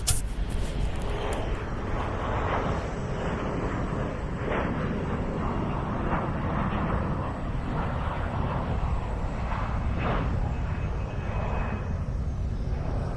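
Jet airliner engines, a steady rumble and hiss.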